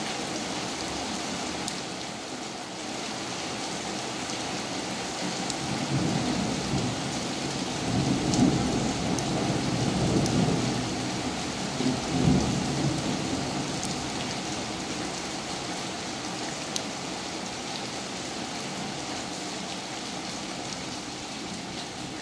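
Heavy rain pouring steadily, with a low rumble of thunder building about six seconds in, rolling through several swells, then dying away a few seconds later.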